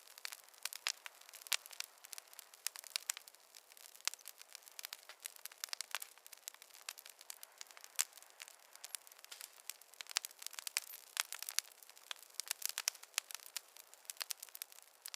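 Wood fire in a fireplace crackling: a dense, irregular run of sharp little pops and snaps over a faint hiss.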